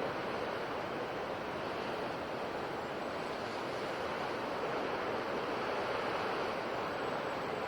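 Ocean waves washing on the shore: a steady surf noise that swells slightly about two-thirds of the way through.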